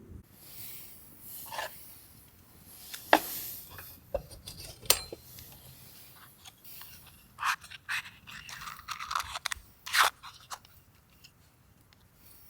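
Irregular close handling sounds: crunches, scrapes and sharp clicks, with a few louder bursts about three, five, seven and ten seconds in.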